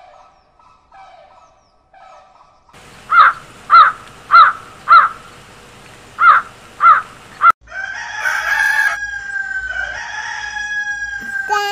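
Faint short honking calls from flamingos, then a crow cawing loudly seven times in two quick runs, then a rooster crowing one long, drawn-out crow of about four seconds.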